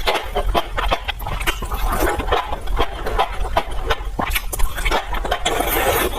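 Close-miked eating sounds: rapid wet chewing, lip smacks and mouth clicks, with a longer wet noisy stretch near the end.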